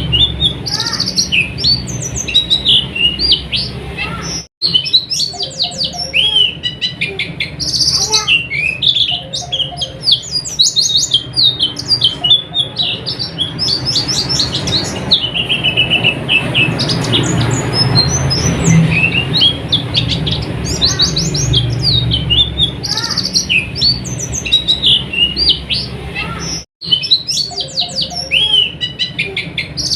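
White-eyes (pleci) singing: a dense, continuous stream of rapid high twittering chirps over a steady low hum, cutting out for an instant twice.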